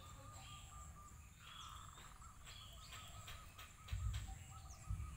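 A bird calling in rapid runs of short, even notes at one pitch, over steady outdoor background noise, with two low thumps near the end.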